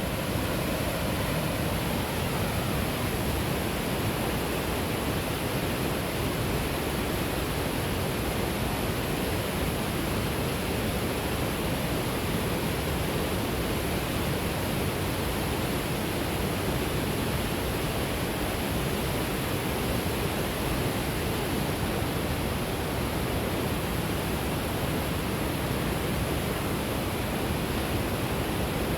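Steady rushing roar of a large waterfall, Lower Whitewater Falls, its falling water making an even hiss across all pitches.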